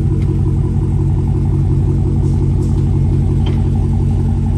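The supercharged 6.2-litre HEMI V8 of a Dodge Challenger Hellcat Redeye idling steadily, with its resonators deleted. The exhaust note is even and low.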